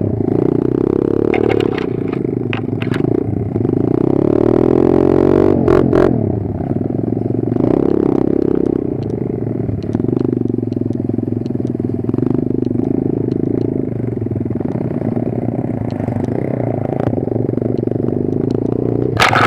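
Kayo 140 pit bike's single-cylinder four-stroke engine running under a rider, its pitch rising and falling with the throttle. Scattered clattering knocks come from the bike around two to three seconds in, again at about six seconds, and near the end.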